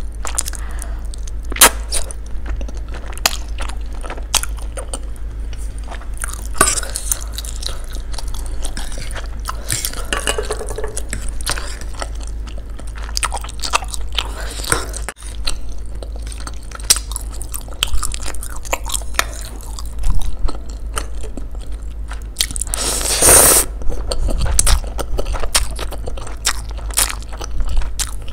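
Close-miked chewing of noodles and rice cakes in sauce: wet mouth sounds and many small clicks and smacks, over a steady low hum. There is a louder, noisier burst near the end.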